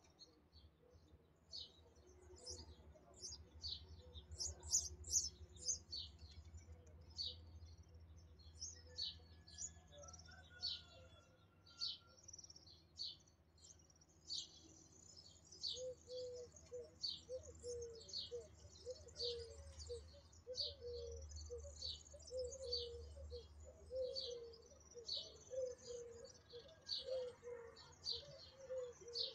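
Small birds chirping, a quick run of short high chirps that keeps going, with a lower note repeated about twice a second joining about halfway through.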